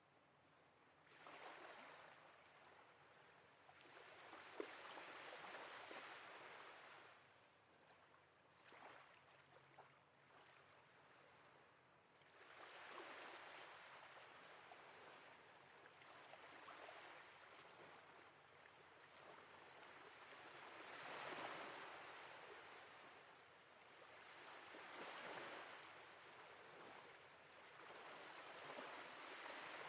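Faint sea waves washing in and drawing back, each surge swelling and fading every few seconds.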